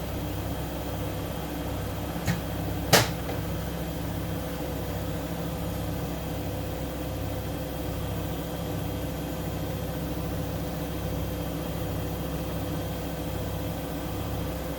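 Siemens Siwamat IQ 716 washing machine running with a steady hum and a low pulse about one and a half times a second. Two sharp clicks come a little over two and three seconds in, the second louder.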